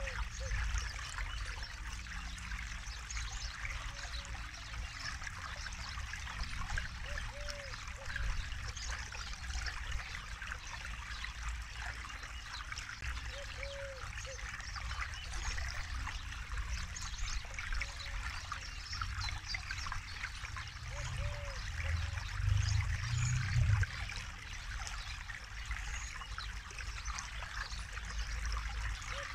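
Forest river flowing and trickling steadily, with a short low note recurring every few seconds. A low rumble swells for a couple of seconds about three quarters of the way through.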